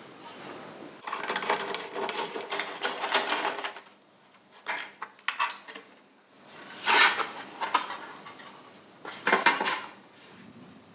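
Metal clattering and rattling in several bursts as heat shields are pulled off a motorcycle exhaust: a long run of rattling and scraping, then scattered clinks and two sharper clusters later on.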